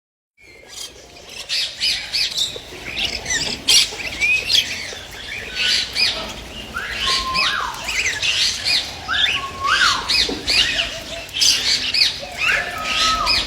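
A group of pet birds calling together: many overlapping chirps, squawks and short rising and falling whistles, with no pause.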